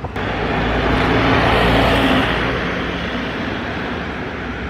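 A motor vehicle passing on the street, growing louder to a peak about two seconds in, then fading.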